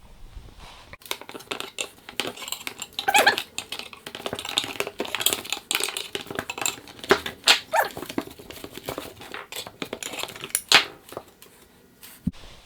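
A wooden table leg being wrenched loose from its old glued dowel joint: a run of irregular creaks and cracks with a few sharper snaps, the sound of the joint and a dowel giving way.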